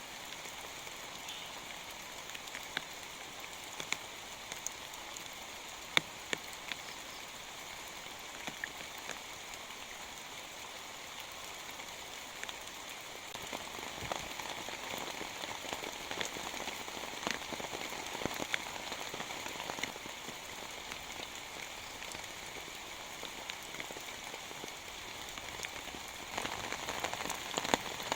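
Steady rain falling, with many single heavy drops landing as sharp taps over the hiss. The rain thickens about halfway through and again near the end.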